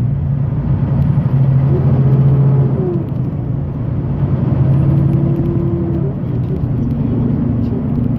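Semi-truck diesel engine running as the truck pulls away from a stop sign. It is a steady low drone that eases off about three seconds in and picks up again.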